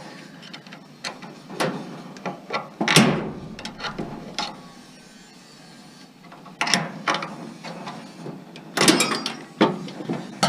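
Irregular metal clanks, knocks and scraping as a scrap appliance's motor mount is worked at by hand, loudest about three seconds in and again near the end.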